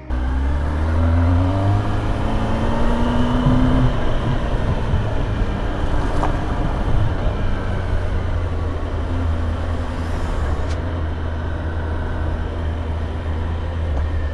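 Kawasaki ZX10R inline-four engine running on its stock exhaust while riding, over steady wind noise. The engine note rises over the first few seconds, then holds steady.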